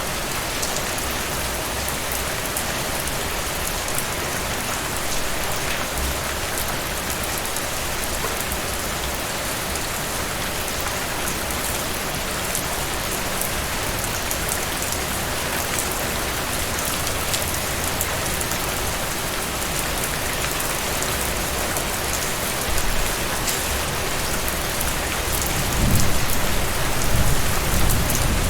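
Heavy rain falling steadily, a dense hiss with scattered sharp drop hits. A low rumble of thunder swells near the end.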